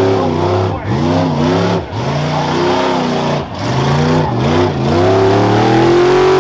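Modified rough-truck race truck's engine revving hard, its pitch climbing and then dropping sharply about five times as the throttle is opened and lifted.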